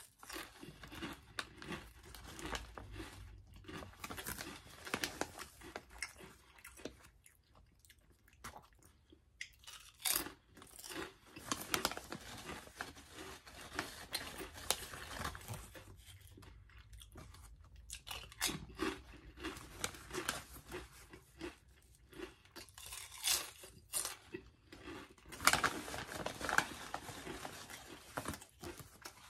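A person chewing crunchy wavy potato chips with the mouth close to the microphone: irregular crunching, coming in clusters with short pauses between and a few louder bites.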